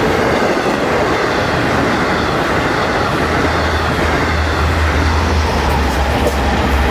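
A train running by: a steady, loud rumble of wheels on the rails with a low hum underneath.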